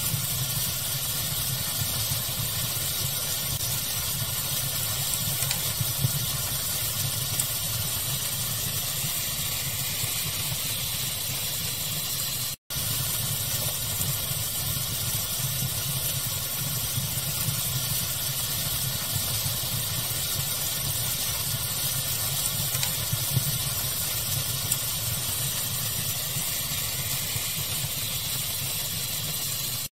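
Steady hissing, rumbling noise of a fire ambience, with a few faint crackles here and there. The sound cuts out for an instant about twelve seconds in.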